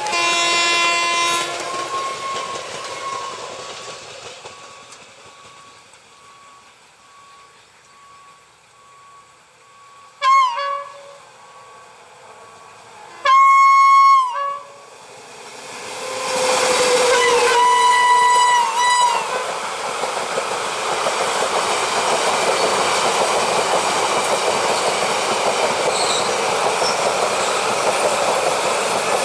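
Indian Railways electric locomotive horns (a WAP-7 and twin WAP-4s) sounding several times: a blast at the start, a short one about ten seconds in, a loud long one a few seconds later and more blasts around seventeen to nineteen seconds. Then an express train passes close by, its coaches rolling over the rails in a loud steady rush with clickety-clack.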